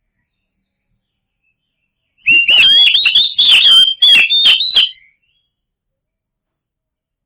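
Oriental magpie-robin singing one fast phrase of about three seconds, starting about two seconds in: loud, varied whistled notes mixed with quick rasping clicks.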